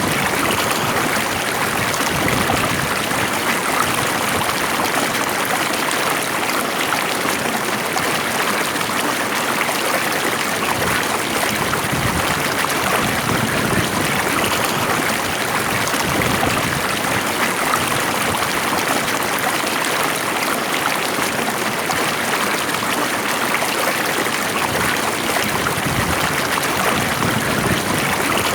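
Water flowing steadily in a stream, an even rushing and babbling with no pauses.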